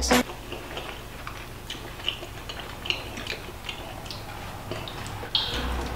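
Cookies being bitten and chewed: light, scattered crunches and clicks over a low steady hum.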